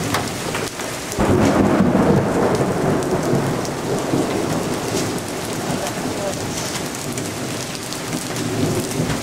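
Heavy rain pouring down steadily, with a thunder rumble that breaks about a second in and slowly dies away.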